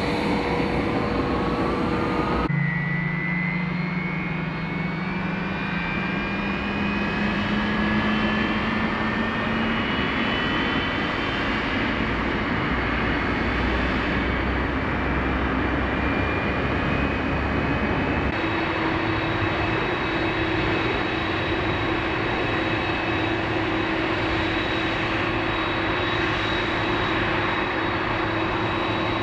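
Boeing 747-400's General Electric CF6 jet engines running, with turbine whines that rise slowly in pitch as the engines spool up. The sound changes abruptly about two and a half seconds in and again after about eighteen seconds, after which the whine holds steady.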